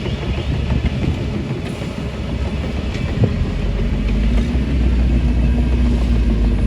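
Heavy diesel earthmoving machinery running, a low engine rumble that settles into a steady hum about halfway through, with a single knock a little after three seconds.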